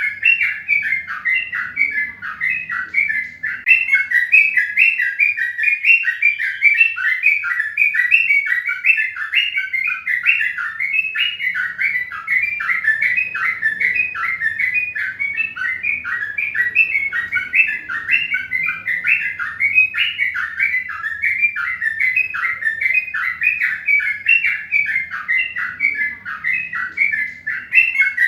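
Birds chirping continuously, a fast, unbroken run of short chirps, about three a second.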